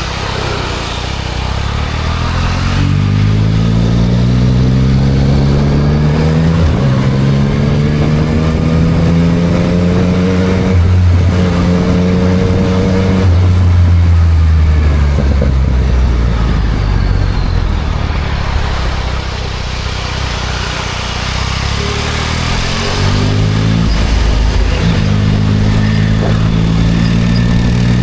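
2024 Yamaha MT-09 SP's 890 cc inline-three through a Spark full exhaust, pulling up through the gears: the engine note climbs in pitch, drops back at each upshift and climbs again. It eases off in the middle, then accelerates through a few quick upshifts near the end, over a steady hiss.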